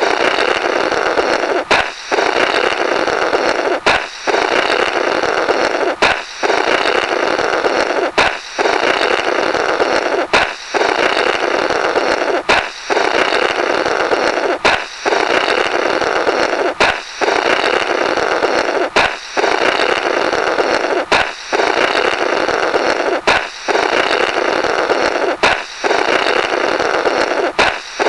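Comical 'blorrrt' balloon sound effect on repeat: a balloon pops and is then blown through its remnants in a raspy, buzzing flutter. The cycle repeats about every two seconds, some thirteen times.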